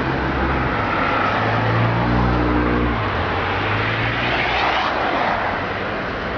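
Car engine running at idle, growing briefly louder and fuller about two seconds in, then settling again.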